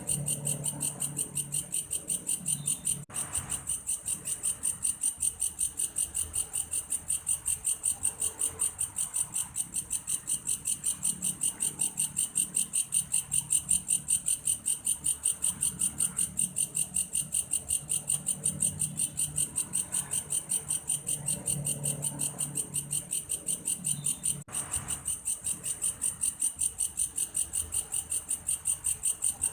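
A belalang kayu (grasshopper-type insect) calls in a steady, evenly pulsed, high-pitched chirping, about three pulses a second, much like a cricket. A faint low hum comes and goes underneath.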